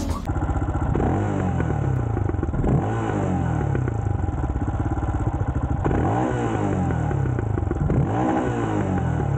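Single-cylinder engine of a Royal Enfield Himalayan with a 500cc big-bore kit, running under way, its note climbing and dropping back several times.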